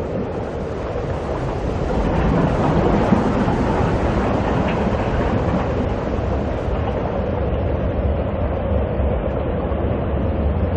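Steady rumbling, rushing noise of a vehicle in motion, growing a little louder about two seconds in and then holding steady.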